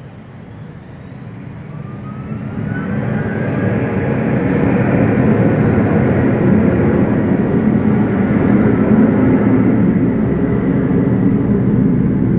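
Jet airliner's engines on takeoff or passing close, building over about four seconds to a loud, steady rumble with a thin rising whine near the start.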